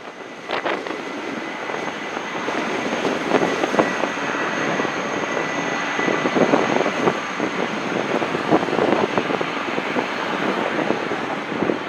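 Jet airliner engines running as the plane passes: a rushing noise that builds over the first couple of seconds, with a thin high whine held above it and bursts of crackle.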